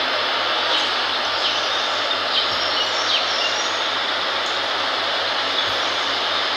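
Steady, dense hiss of tropical forest ambience, with a few short, high bird chirps over it.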